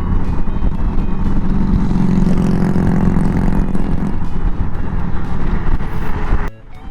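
Riding noise of a 2023 Honda Gold Wing at highway speed: steady wind rush and road noise with the bike's flat-six engine running underneath. A deeper hum swells for a couple of seconds around the middle, and the sound drops away briefly near the end.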